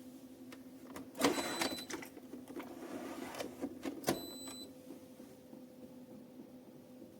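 De'Longhi Magnifica Start fully automatic espresso machine running with a steady mechanical hum. Louder noisy clattering bursts come about a second in and again about four seconds in.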